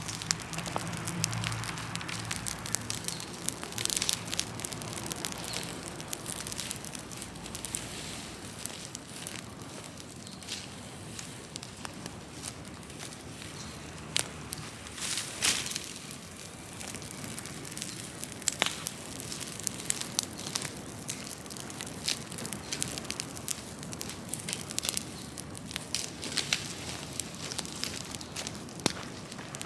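Large open bonfire of wood and brush burning: a steady hiss with irregular crackling and sharp pops, a few of them louder.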